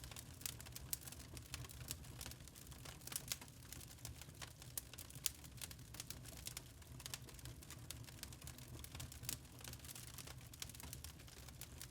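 Wood fire crackling in a fireplace: quick irregular snaps and pops, a few louder than the rest, over a faint low rumble.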